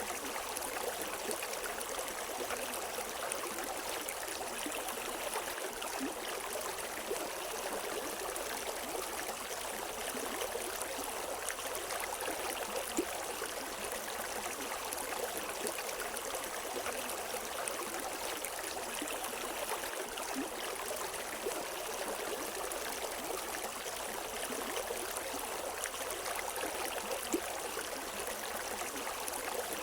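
River water flowing over rocks: a steady rushing with small splashes and gurgles scattered through it, and no birdsong.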